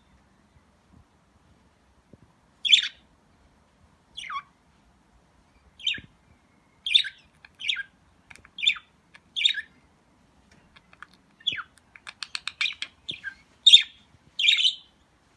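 Budgerigars chirping: short, sharp calls that drop in pitch, about one a second, starting about three seconds in, with a quick rattling chatter near the end.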